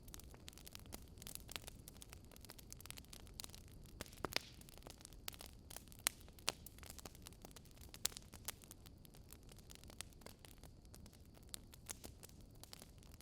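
Wood fire in a fireplace crackling: irregular snaps and pops from the burning logs, a few louder ones standing out, over a low steady rumble of the flames.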